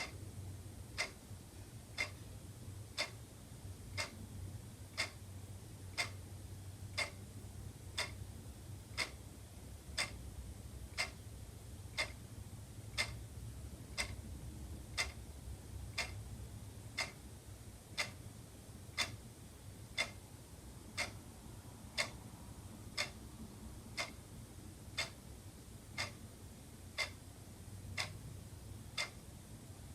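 Wall clock ticking evenly, one tick per second, over a low steady hum.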